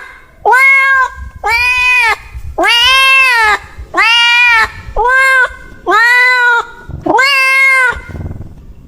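A cat meowing over and over: about seven loud meows roughly a second apart, each rising and then falling in pitch.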